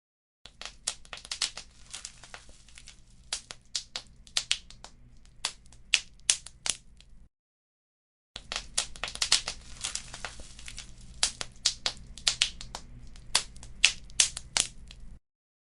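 Wood fire crackling, with many sharp pops over a low steady rumble. The sound cuts out completely for about a second midway and again near the end.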